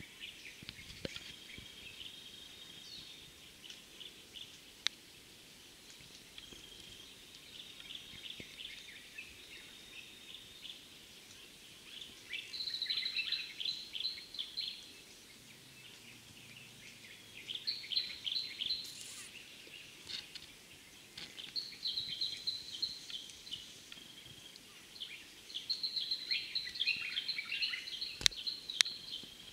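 Forest birds singing: one bird gives loud, repeated trilling phrases in four bursts of a few seconds each, over softer chirps from others. A couple of sharp clicks come through, the louder one near the end.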